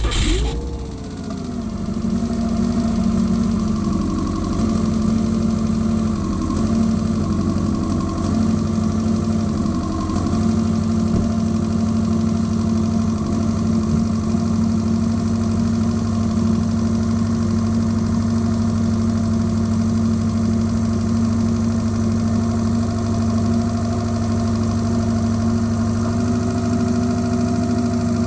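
2009 Subaru Outback 2.5's flat-four engine idling just after being started, heard close up from the engine bay. The revs drop over the first couple of seconds, and the idle wavers unevenly until about ten seconds in, then settles to a steady note. This fits the rough running on start-up that the owner reports; he says no misfire occurs here.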